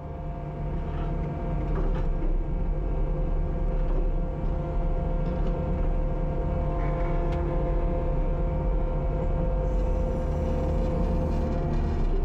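Kubota SVL75-2 compact track loader's diesel engine running steadily, a deep drone with a steady hum above it; one strand of the hum drops out near the end.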